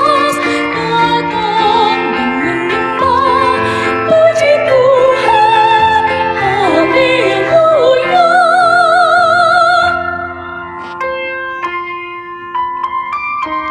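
Church choir singing with strong vibrato over piano accompaniment. The voices end about ten seconds in and the piano carries on alone with separate notes.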